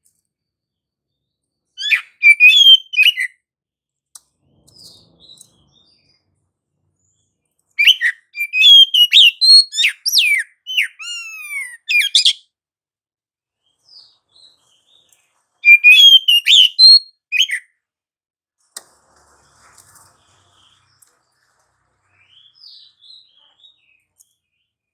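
Oriental magpie-robin (kacer) singing in three loud bursts of rapid, varied whistles and sliding notes. The longest phrase comes in the middle, and there are short pauses between the bursts.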